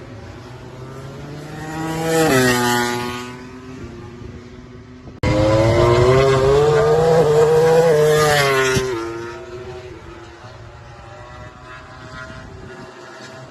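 MotoGP race motorcycles running on track: one bike's engine note swells and fades about two seconds in. After an abrupt cut, a louder bike holds a high, slowly rising engine note for about four seconds before fading away.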